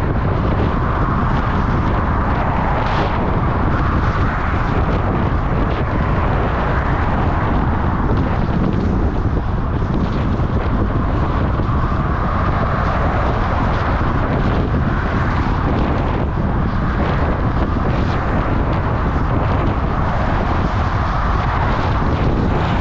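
Wind rushing over the microphone of a camera carried on a moving bicycle: a loud, steady roar of noise.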